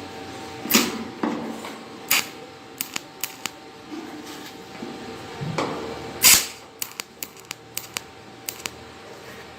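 Welding machine firing short shots that build filler onto a stainless-steel tank patch: irregular sharp cracks and snaps, about a dozen, the loudest about one second in and again past the middle, over a faint steady hum.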